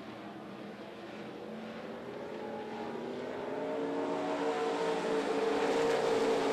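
A field of dirt-track race cars running laps, their engines growing steadily louder from about two seconds in.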